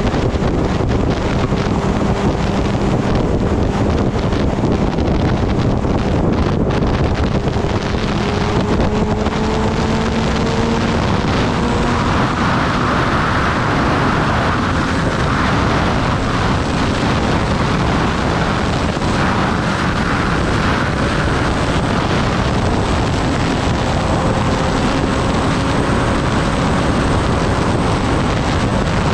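Wind rushing over the microphone at riding speed, with the Kawasaki Ninja ZX-10R's inline-four engine humming underneath, its note creeping up in pitch a few times.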